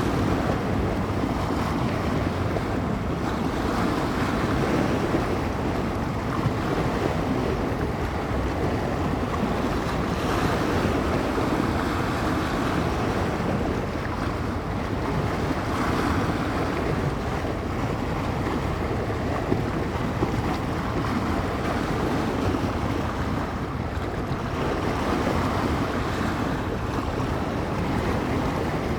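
Bay waves breaking and washing onto the shore, rising and falling in soft swells every few seconds, with wind buffeting the microphone.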